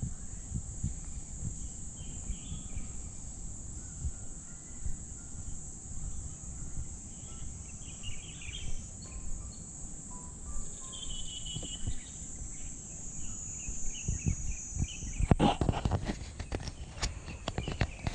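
Steady high-pitched insect drone, with short bird calls scattered through it. In the last few seconds come a run of sharp crunching footsteps.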